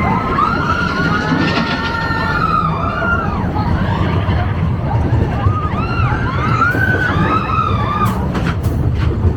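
Mine-train roller coaster rumbling along its track, with riders whooping and screaming in rising and falling cries over it. A few sharp clacks come near the end.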